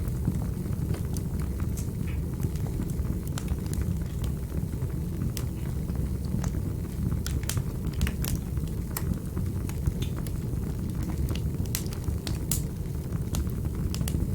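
Wood fire burning in a fireplace: a steady low rumble of flames with irregular sharp crackles and pops scattered through it.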